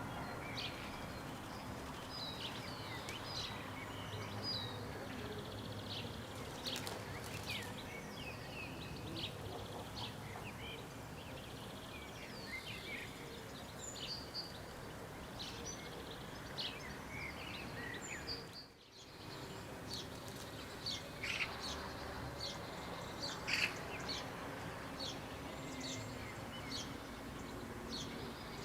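Wild birds chirping and singing, with many short, high chirps and whistles, over a steady low background rumble. The sound briefly drops out about two-thirds of the way through.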